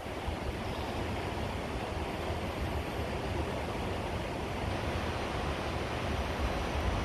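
Steady outdoor rushing noise, an even hiss with no distinct events and no motor whine.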